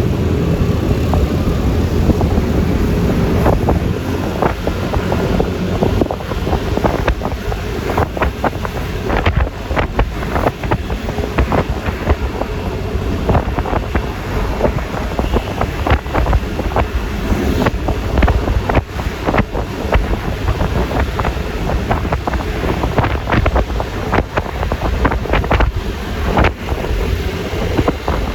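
Yamaha Lexi LX 155 scooter's single-cylinder engine and tyre noise while riding, under heavy wind buffeting on the microphone. Many short sharp crackles and knocks come through in the middle and later part.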